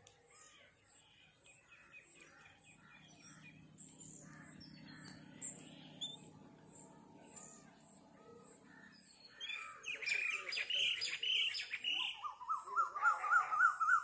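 Wild birds calling in woodland: scattered chirps throughout, a burst of harsh, repeated calls about ten seconds in, and a fast warbling trill near the end, the loudest part. A faint low drone runs underneath in the first half.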